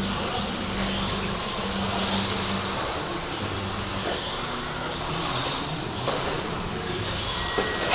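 Several 1/10-scale electric RC stadium trucks with 13.5-turn brushless motors racing around a track: a steady mix of motor whine and tyre noise that rises and falls as they speed up and slow down.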